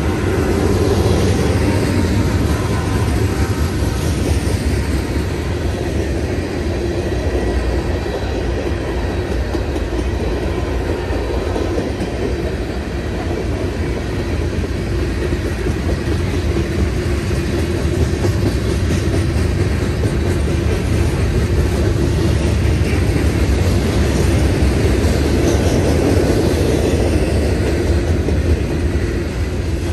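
Mixed freight cars of a Norfolk Southern manifest train (covered hoppers, tank cars and boxcars) rolling past, their steel wheels running over the rails in a steady rumble.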